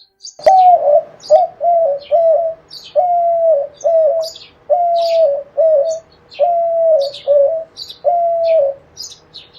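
Dove cooing in a quick series of about a dozen short coos, starting about half a second in, with high, thin chirps of small birds sounding over and between them.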